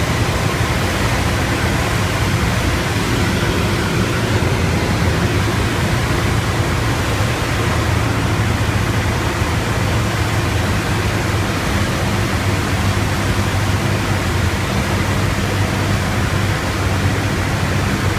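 Piper PA-38 Tomahawk's four-cylinder Lycoming engine and propeller droning steadily in flight, under a heavy, even rush of air noise.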